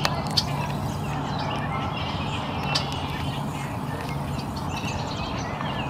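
Faint scattered bird chirps over a steady outdoor background hum, with a few sharp ticks in the first three seconds.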